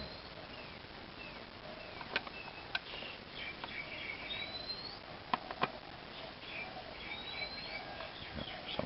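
Small birds chirping in the background, with short rising whistled calls about three times. A few sharp clicks sound in the middle.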